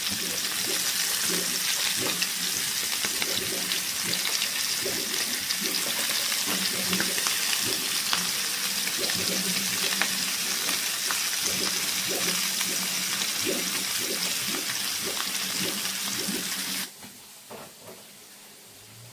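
Bamboo-shoot rolls frying in hot oil in a pan: a steady sizzle with scattered crackles and pops. The sizzle cuts off suddenly about seventeen seconds in, leaving a much quieter background.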